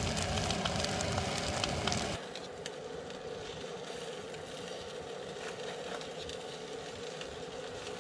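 Portable camp stove burning under a pot of food being heated, a steady hiss that drops to a lower level about two seconds in.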